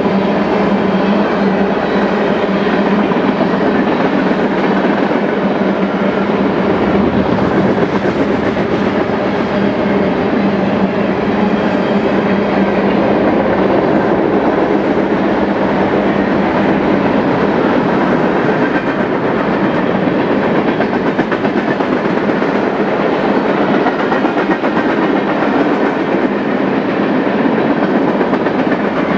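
Freight cars of a BNSF manifest train, mostly tank cars, rolling past at close range: a steady rumble and clatter of steel wheels over the rail joints. A steady low hum during the first several seconds fades out.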